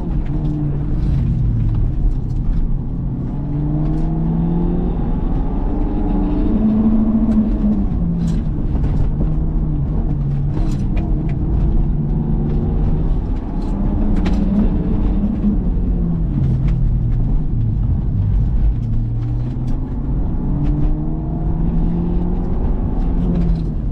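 Car engine on an autoslalom run, revving up and dropping back again and again as the driver accelerates and brakes between turns, with occasional short sharp clicks.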